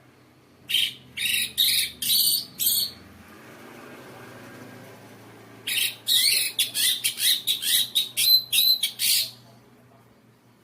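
Orange-headed thrush singing kingfisher-call mimicry learned in training: a short run of about five loud, high, clipped notes, then after a pause a longer, faster run of about a dozen.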